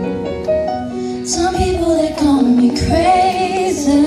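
A young girl singing a slow R&B ballad over a backing of held keyboard chords; the chords play alone for about the first second, then her voice comes in with a long, wavering sung line.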